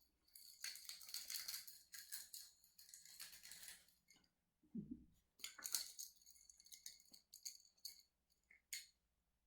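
Puppy eating small food treats: quick, light crackling and rattling in two stretches, with a brief low sound about five seconds in and a couple of sharp clicks near the end.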